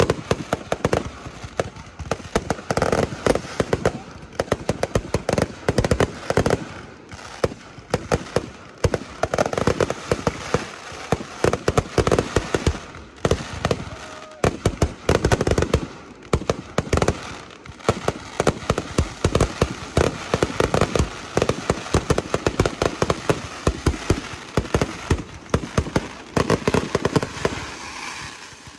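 Fireworks display: a continuous barrage of shells bursting, dense rapid bangs and crackling with no letup.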